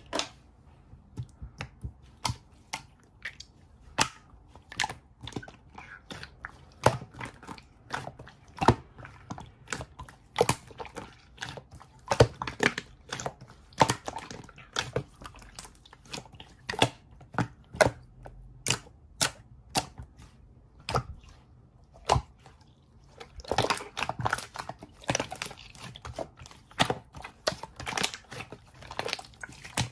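A series of sharp, irregular clicks and taps, a few a second, coming thicker and faster for a couple of seconds late on.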